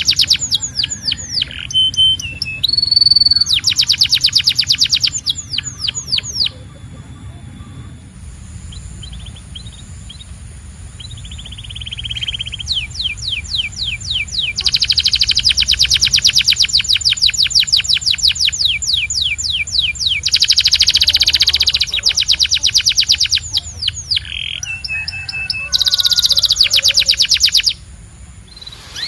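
Domestic canary singing in fast trills of rapidly repeated notes. It goes quieter for a few seconds about a quarter of the way in, then resumes with long rolling trills that stop shortly before the end.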